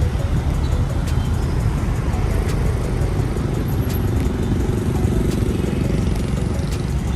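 Steady low rumble of a road vehicle's engine and traffic, with scattered faint clicks.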